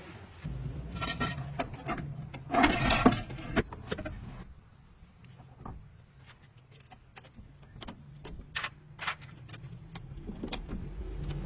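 Metal tools and parts clinking and clattering during truck axle work, with a louder rattling scrape about three seconds in, over a faint low hum.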